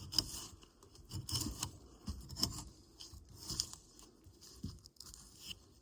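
Bark being peeled off a log with a peeler knife: repeated scraping, tearing strokes, about one a second.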